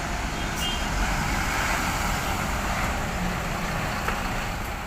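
Large bus engines running close by amid the steady din of a busy bus terminal.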